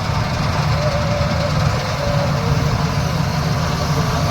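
Heavy diesel engine of farm harvesting machinery running steadily with a constant low hum.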